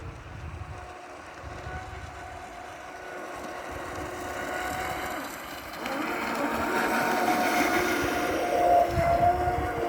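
Homemade radio-controlled model boat's twin electric motors running with a steady whine, growing louder through the clip and loudest from about six seconds in.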